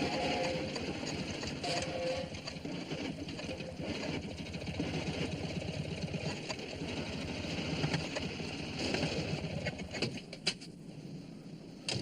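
Small van engine running with a steady low chugging. A few sharp clicks come near the end.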